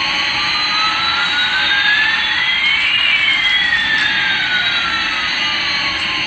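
Jet-engine sound: a steady hiss with two whining tones, one gliding up and one gliding down, crossing about halfway through.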